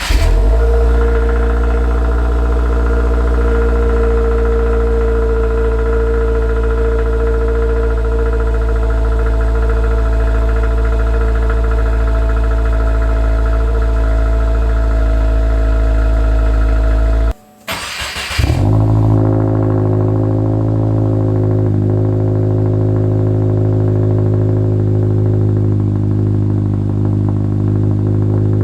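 2024 Subaru WRX's turbocharged 2.4-litre flat-four catching from a start and running at a steady idle. About 17 seconds in the sound stops abruptly, the engine is cranked and started again, and it settles into a steady idle with a deeper tone.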